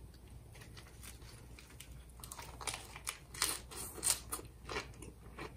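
Close-up crunching and chewing of a fresh lettuce and perilla-leaf wrap, a mouthful of Spam ssambap. A run of irregular crisp crunches starts about two seconds in.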